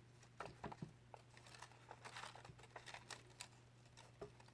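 Faint rustling and light taps of paper being handled and pressed together as a glued paper piece is stuck down, over a low steady hum.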